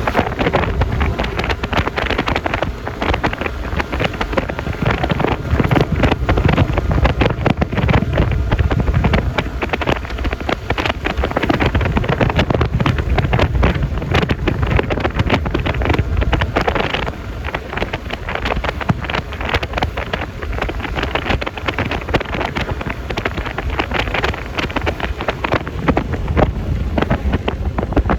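Wind buffeting the microphone over the steady running of a Yamaha Lexi LX 155 scooter and its tyre and road noise while riding.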